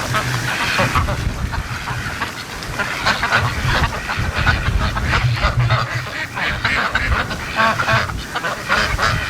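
A flock of domestic ducks quacking, many calls overlapping without a break, over strong wind rumbling on the microphone.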